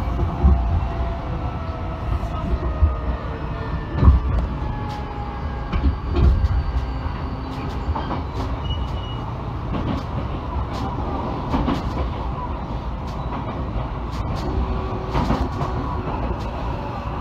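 Electric commuter train running, heard from inside the carriage: a steady low rumble with scattered wheel-on-rail clicks, and a motor whine that falls slightly in pitch during the first few seconds.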